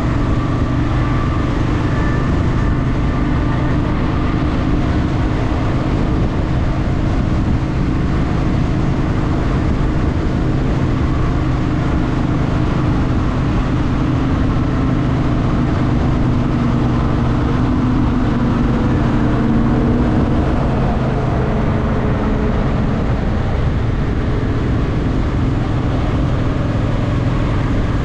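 Honda Shadow VT750's V-twin engine running steadily as the motorcycle cruises, its low drone swelling slightly about twenty seconds in before settling again.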